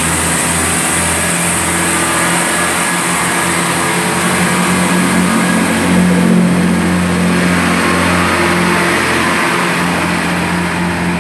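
Class 166 diesel multiple unit's underfloor diesel engines running and pulling away from the platform, the engine note growing louder and stronger about six seconds in as it powers up.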